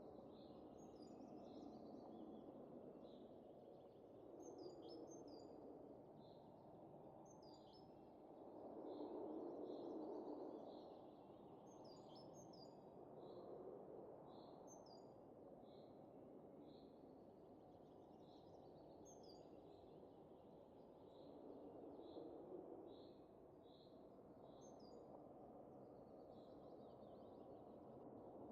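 Soft winter wind rising and falling in gusts, loudest about a third of the way in. Over it, small birds chirp repeatedly, a string of short high notes about once a second with an occasional quick higher chirp.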